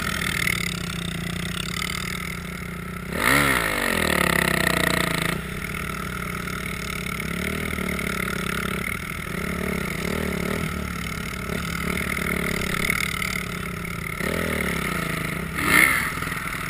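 Dirt bike and quad bike engines running while the quad tows a board plough over snow and ice. The engine revs up sharply with a rising pitch about three seconds in, rises again more gently near the end, and there is a short loud burst just before the end.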